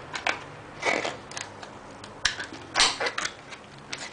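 Memory card packaging being handled and pried open by hand: a string of irregular clicks, crinkles and scrapes, with louder ones about a second in and near the three-second mark.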